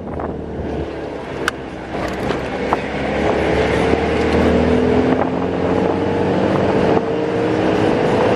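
Bus engine running on the move over steady road rumble, its drone rising slowly in pitch from about three seconds in as it speeds up, with a couple of light clicks or rattles early on.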